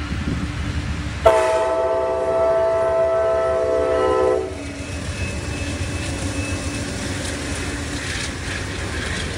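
Amtrak Auto Train's GE Genesis diesel locomotives passing through a grade crossing. The locomotive horn sounds one long multi-note chord blast, starting abruptly about a second in and cutting off after about three seconds. Then the engines rumble and the wheels clatter over the rails as the train rolls by.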